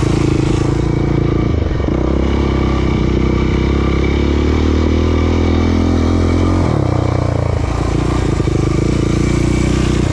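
Off-road racing vehicle engine running steadily, with its pitch shifting about two seconds in and again near seven seconds, as with gear or throttle changes.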